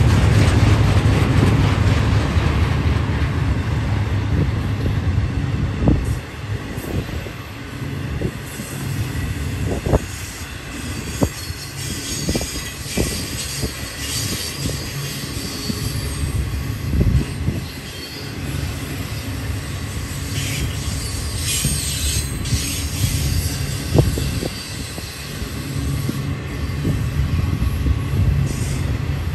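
Intermodal freight cars loaded with trailers and containers rolling past with a steady low rumble, scattered sharp clanks and knocks, and a high wheel squeal through the middle stretch.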